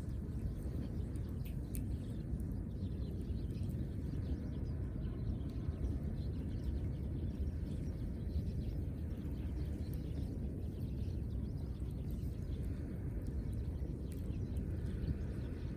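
Steady low rumbling outdoor background noise with a few faint scattered clicks.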